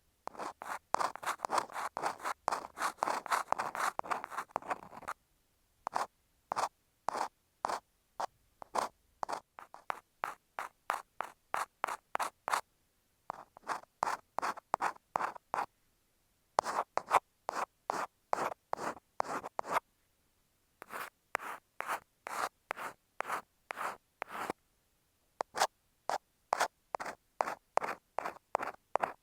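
Ear pick scratching against an earphone microphone: a continuous scraping rub for the first few seconds, then quick separate strokes about three a second in runs broken by short pauses.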